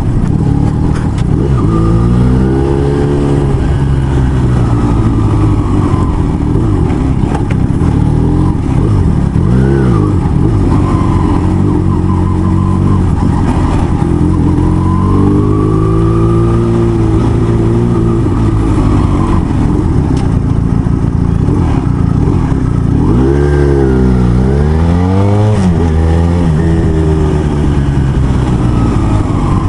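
Motorcycle engine under way, revving up and easing off several times as the bike accelerates and slows, over a steady low rumble.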